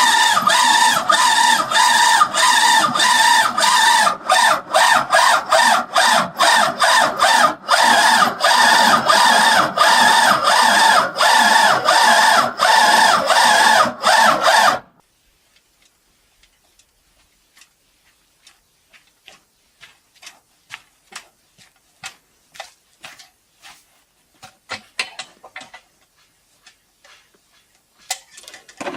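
Loud, dense, continuous farm-animal calls that stop abruptly about halfway through. Faint scattered clicks and scrapes follow, with a louder knock near the end.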